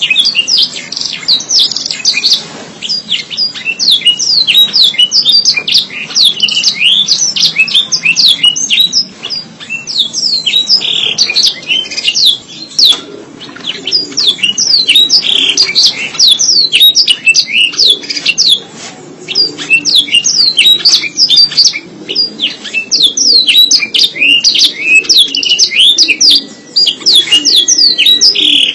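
Domestic canary singing a long, fast song of high trills and chirps, with a few brief pauses between phrases.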